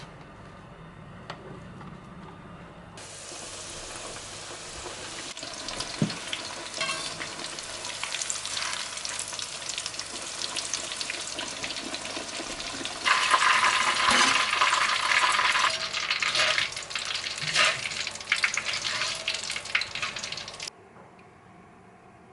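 Food sizzling and crackling as it fries in hot oil, with fine spattering crackles. It starts a few seconds in, is loudest around the middle, and cuts off suddenly near the end.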